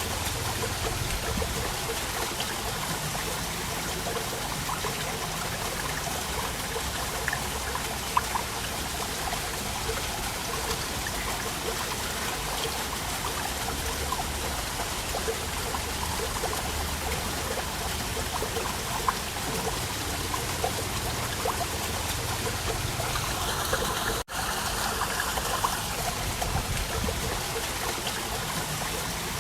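Waterfall water running and splashing steadily, an even rush with small scattered splashes. The sound drops out for an instant about three-quarters of the way through.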